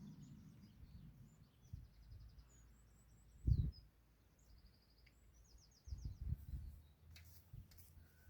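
Small birds chirping with short trills, faint, over outdoor background noise. A brief low thump about three and a half seconds in is the loudest sound, and more low thumps follow around six seconds in.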